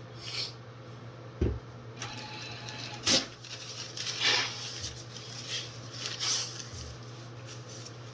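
A low thump and then a sharp click of something being handled, followed by several short, hissy breaths drawn through the nose as its clearness after a nasal saline rinse is tested.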